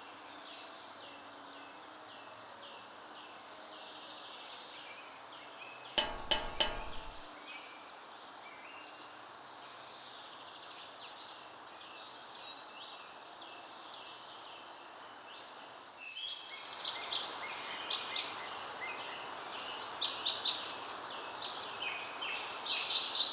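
Outdoor ambience of birds chirping, a steady run of short repeated calls over a faint hiss. About six seconds in come a few sharp clicks. After about sixteen seconds the hiss grows louder and the chirping gets busier.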